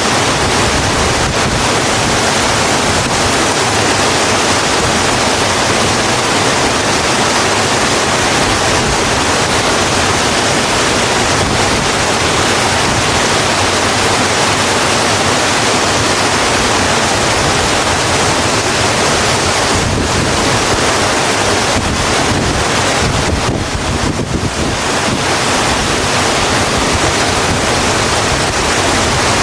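Steady rain falling on a road, a loud even hiss that dips slightly for a moment about three-quarters of the way through.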